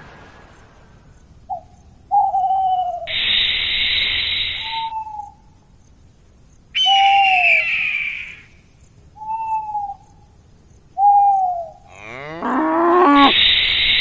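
Sound effects laid over the scene: a snake's hiss twice, about three seconds in and again near the end, between short falling animal cries repeated several times. A louder cry comes about seven seconds in, and a longer rising call just before the second hiss.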